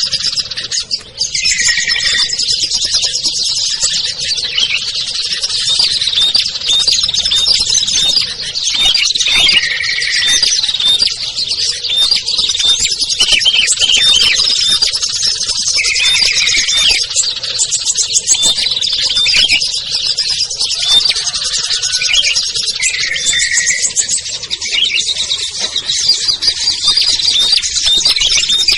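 A dense, continuous chorus of small songbirds chirping and twittering, a bird-lure recording of several species mixed together. A fuller, lower whistled phrase stands out about every six or seven seconds.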